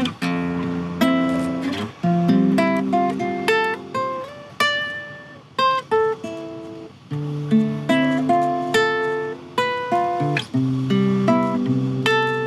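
Solo acoustic guitar played by hand: single plucked notes of a slow melody over bass notes and chords, each struck and left to ring out.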